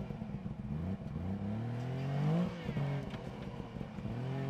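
Suzuki 4x4's engine revving under load as it crawls over logs and rocks: the engine note rises for about a second and a half, drops back, then rises again near the end.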